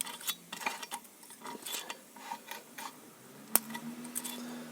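Light metallic clicks and scrapes of steel feeler gauge blades being worked between gear teeth to check clearance, the blade binding. One sharper click comes about three and a half seconds in, followed by a faint steady hum.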